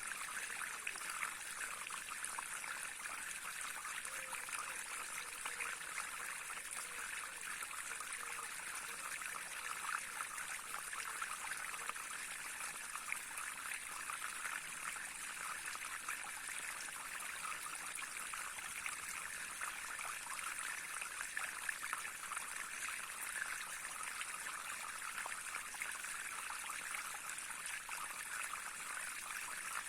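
Small stream running and trickling steadily, a continuous babbling hiss flecked with fine splashes.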